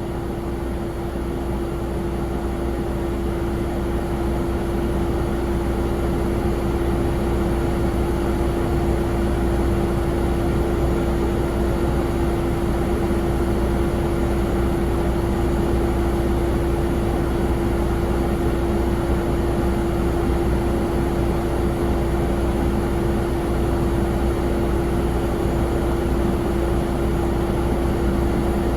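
Jet airliner engines running steadily, with a constant hum over a low rumble, growing a little louder over the first several seconds.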